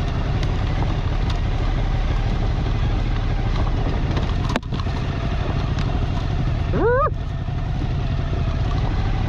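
Motorcycle engine running while under way, with a steady low rumble. The sound drops out briefly about halfway through, and the revs sweep up quickly about seven seconds in.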